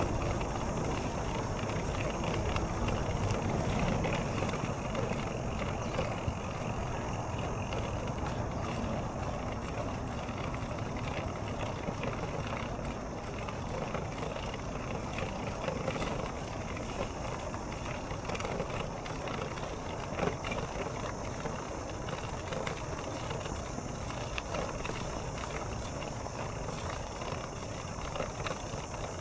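Steady rolling noise of a bicycle being ridden, with frequent small rattles and clicks.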